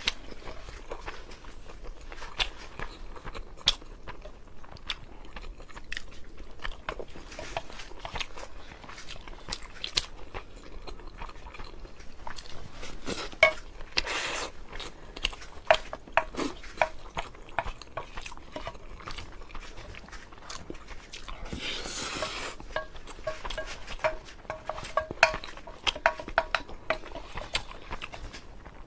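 A person eating braised pork belly over rice close to the microphone: steady chewing and biting mouth sounds with many small clicks. A run of light clinks comes from a utensil against the bowl near the end.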